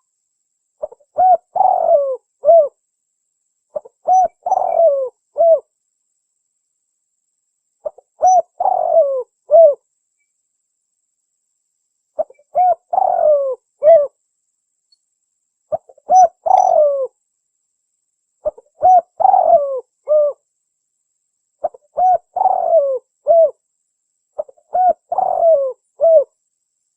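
Spotted dove (tekukur) cooing: a short phrase of several low, falling coo notes, repeated eight times about every three to four seconds, with dead silence between phrases.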